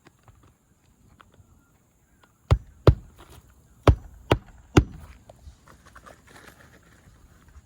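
Hammer blows driving roofing nails through an asphalt shingle: five sharp strikes, a pair about two and a half seconds in, then three more about a second later.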